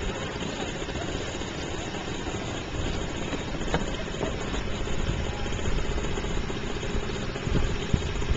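Small motor of a bumper boat running steadily.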